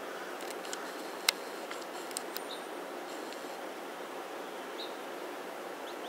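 Outdoor background hiss with a few sharp clicks, one loud about a second in, and a couple of short, faint, high bird chirps.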